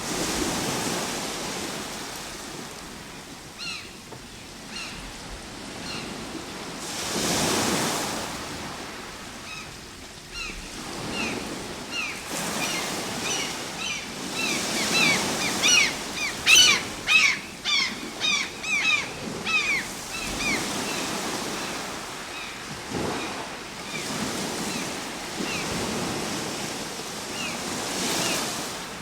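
Ocean waves washing onto a shore in slow swells, with many short, falling bird calls over them, thickest about halfway through.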